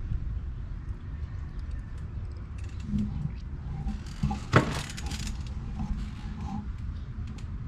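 A single sharp knock about four and a half seconds in, over a low rumble and a few faint clicks.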